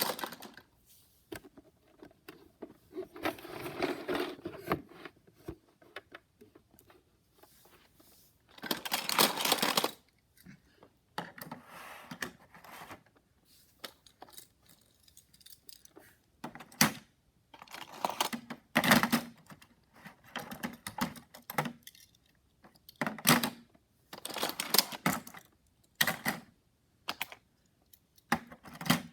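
Hot Wheels die-cast toy cars and their plastic pieces being handled: irregular clicks and clattering, with a longer rattle of about a second a little under ten seconds in and several shorter clattering spells later.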